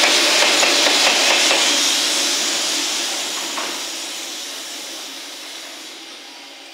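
A JR Freight EF210 300-series electric locomotive, pushing as the rear banker of a container freight train, passes with a loud rushing noise and wheel clicks over the rail joints. The noise then fades steadily as the train draws away.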